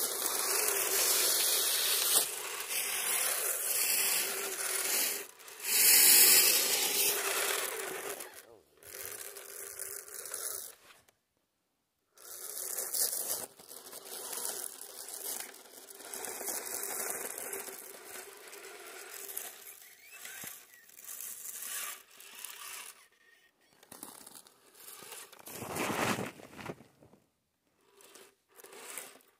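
Scale RC crawler truck driving through crusty snow: tyres scraping and crunching through the snow in uneven bursts as the throttle comes and goes, over a faint steady electric motor whine. The loudest crunching is in the first few seconds, and the sound drops out briefly a little before halfway.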